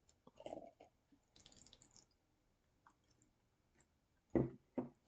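Quiet handling of an opened beer can and glass: faint clicks and a short hiss in the first two seconds, then two knocks about half a second apart near the end.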